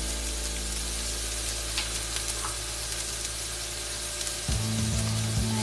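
Chopped onion, ginger-garlic paste and green chilli sizzling in oil in a nonstick pan, stirred with a wooden spatula that scrapes and ticks against the pan a few times. A low steady hum comes in about four and a half seconds in.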